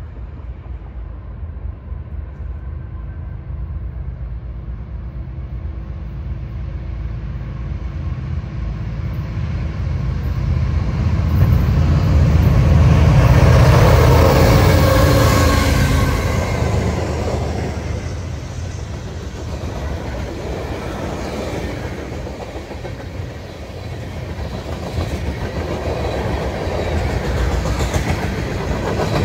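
Freight train's diesel locomotives approaching and passing, their engines growing louder to a peak about halfway through and then easing off. After that, loaded gondola cars roll by, their wheels clacking over the rails.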